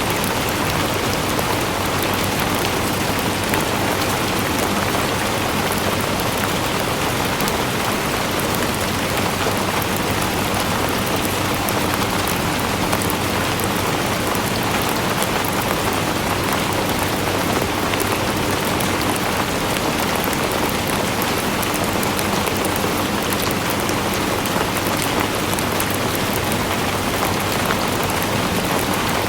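Steady rainfall, a dense even hiss of drops hitting a surface with fine pattering ticks throughout.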